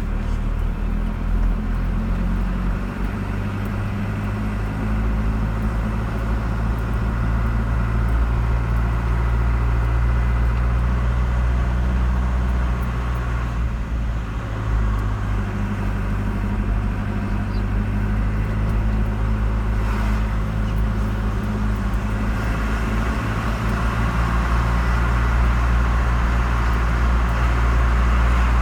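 A car being driven at a steady pace: a continuous low engine drone with road and tyre noise.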